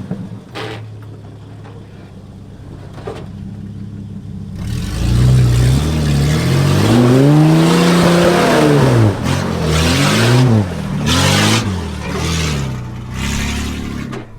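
Nissan GQ Patrol's carburetted TB42 straight-six with no exhaust, running low for the first few seconds, then revving up and down repeatedly under load on an off-road climb. Several short noisy bursts come near the end.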